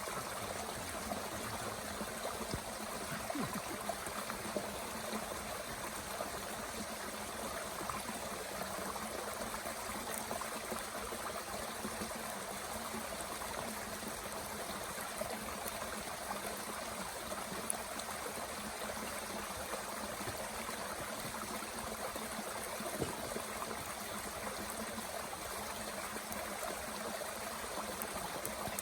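Mountain stream running steadily, with a few faint sharp pops from a small wood fire burning in a Bush Box camp stove.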